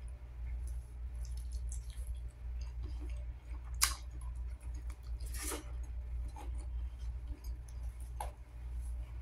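Close-up chewing of chicken adobo and rice eaten by hand, with wet mouth clicks; the sharpest, loudest click comes about four seconds in, and a longer wet smack follows about a second and a half later. A low steady hum runs underneath.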